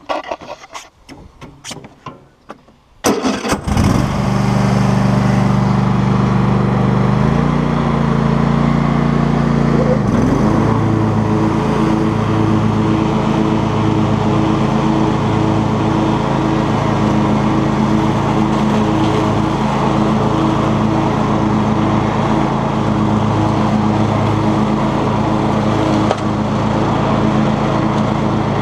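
Cub Cadet XT2 lawn tractor engine starting after a few clicks and knocks, about three seconds in. It steps up in speed twice, a little around seven seconds and more around ten seconds, then runs steadily at high throttle.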